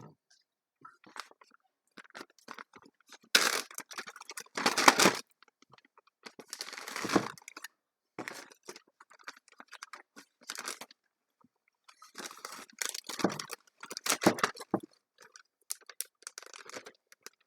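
Plastic wrap and Ziploc freezer bags rustling and crinkling as they are handled, in irregular bursts with quieter gaps between.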